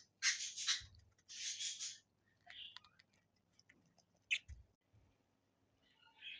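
Pet budgerigars making soft, raspy noises: two hissy bursts in the first two seconds, then scattered small clicks.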